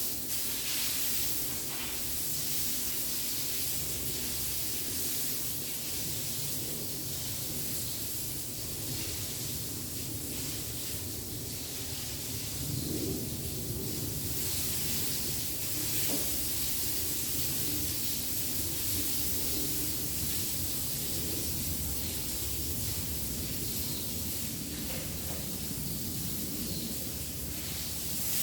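Steady hissing, rushing noise with a low rumble underneath, unbroken throughout.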